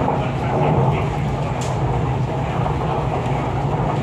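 MTR East Rail Line R-Train electric multiple unit running, heard from inside a carriage: a steady low rumble and hum from the wheels and traction equipment.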